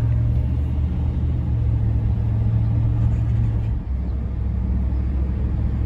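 Steady low rumble of a 1971 Mercury Marquis Brougham's V8 and road noise while cruising, heard from inside the cabin, with a brief dip a little under four seconds in.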